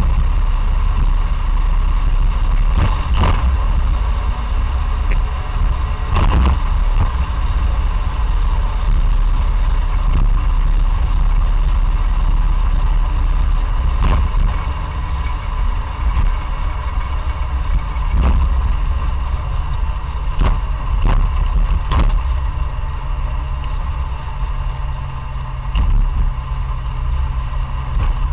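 A classic Fiat 500 L's small air-cooled two-cylinder engine running while the car is driven, with road noise and occasional knocks. From about two-thirds of the way through, the sound settles into a steadier, slightly quieter hum with a steady low tone.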